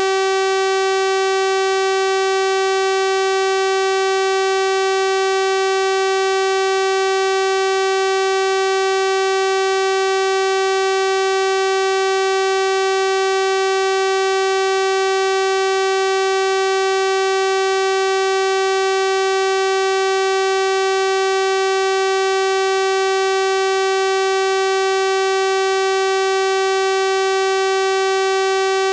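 Synthesized 384 Hz sawtooth-wave test tone, held steady at one pitch with a bright, buzzy stack of overtones.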